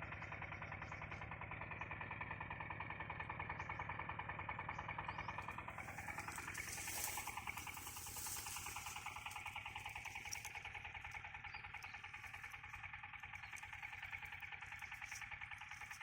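Motor engine running steadily with a fast, even pulse, and a vehicle passing about seven seconds in, its pitch sliding as it goes by.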